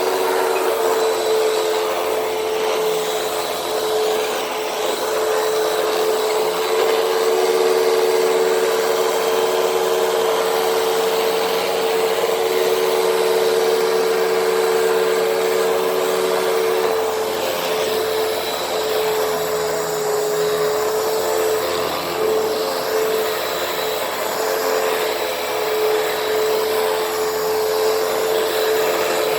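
Hoover WindTunnel T-Series upright vacuum running steadily on carpet, its motor giving a steady high hum. A second, slightly lower tone in the hum drops out about halfway through.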